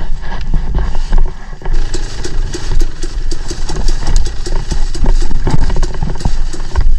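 Dirt bike engine running at low revs, with a rough low rumble, while the bike picks its way over rocks; a run of sharp knocks and clatter sets in about two seconds in.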